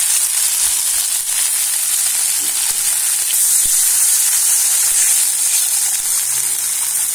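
Fried spice paste sizzling in hot oil in a kadai as water is poured in over it: a steady hiss, with a few light clicks of the spatula against the pan. This is the stage where water goes onto the fully fried masala to make the thin fish curry gravy.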